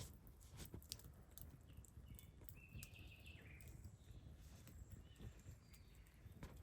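Quiet campfire crackling: burning wood gives sharp, irregular snaps and pops over a low steady rumble.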